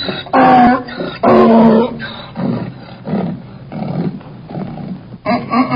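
An animal calling: two short, loud pitched calls, then a run of quieter, lower grunts about two a second, and a longer pitched call near the end.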